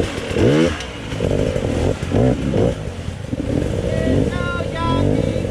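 Dirt bike engine revving in repeated short bursts, its pitch rising and falling with each blip of the throttle. A few brief steady high tones come in about four seconds in.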